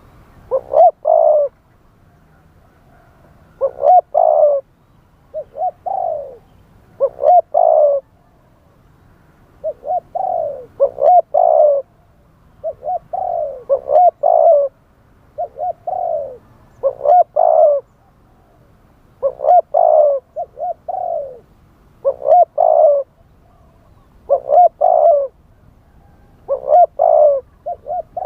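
Spotted dove cooing: short phrases of a few hollow coo notes repeated every one to three seconds. This is the wild-style call used to lure other spotted doves.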